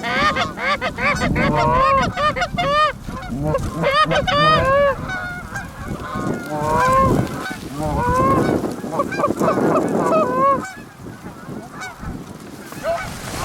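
Canada goose honks and clucks, many overlapping in quick succession, thinning out to a few scattered calls after about ten seconds.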